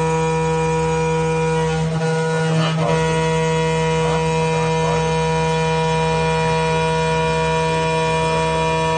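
2.2 kW water-cooled spindle of a CNC router running with a steady, many-toned whine while engraving a flat steel bar, with a brief scratchy change in the cutting noise about two to three seconds in.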